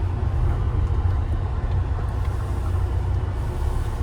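Steady low rumble of a moving car: the Tata Harrier's road and engine noise.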